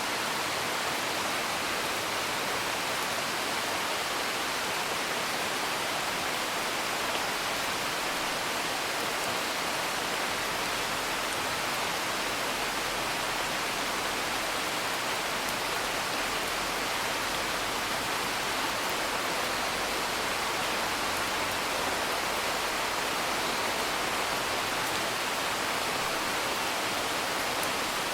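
Steady rain heard from indoors, with faint crackles of a wood fire.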